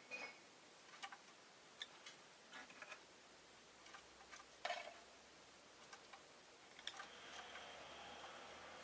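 Rosy-faced lovebird making faint, scattered clicks and brief chirps, one louder a little past the middle. A faint steady hum comes in near the end.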